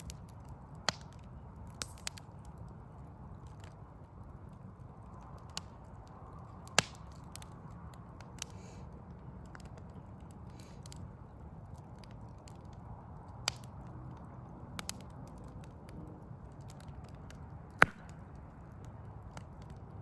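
Wood fire burning: sharp crackles and pops at irregular intervals, the loudest about 7 and 18 seconds in, over a steady low rumble.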